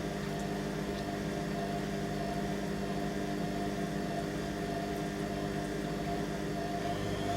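Candy Aquamatic 100F washing machine on its 600 rpm intermediate spin, the drum motor running with a steady hum of several tones. Near the end a faint whine starts and rises in pitch.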